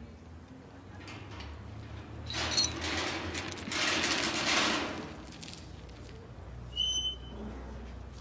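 A rattling clatter lasting about three seconds, followed by a short high squeak near the end.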